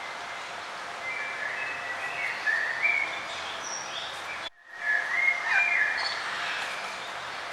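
Songbirds singing warbling, gliding phrases over a steady outdoor background hiss, with a sudden brief dropout of all sound a little past halfway.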